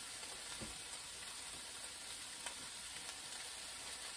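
Faint, steady sizzle of Italian sausage, chopped vegetables and garlic frying in a skillet on low heat, with a couple of faint taps.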